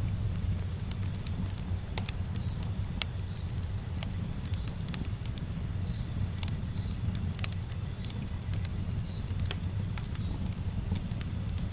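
Campfire burning with a steady low rumble of flame and irregular sharp crackles and pops from the wood, a few of them louder snaps.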